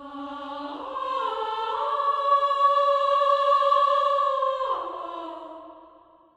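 Music: an a cappella vocal chord held and swelling, moving to a new chord about a second in and again near five seconds, then fading out.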